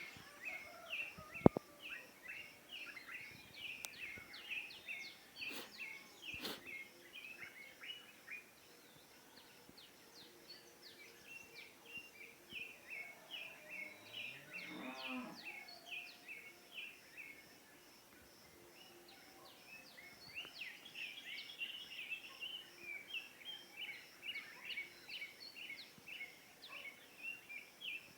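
Morning birdsong of many short, rapidly repeated chirps, with a cow mooing once about halfway through. A single sharp click comes near the start.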